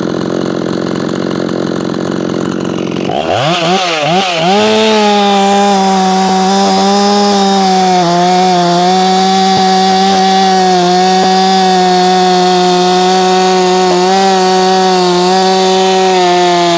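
Ported Efco 165 two-stroke chainsaw brought up to full throttle about three seconds in, after some wavering, then held at a steady high pitch while cutting wood at about 11,000 RPM. It is cutting well, and the revs drop off right at the end.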